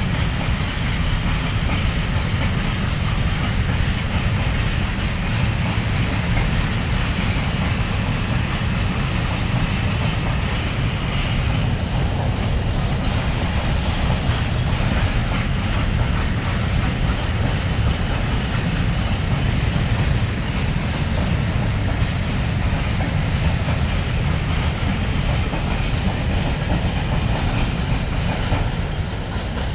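Freight train of open-top wagons rolling past at close range, a steady rumble of wheels and wagons that eases slightly near the end as the tail of the train approaches.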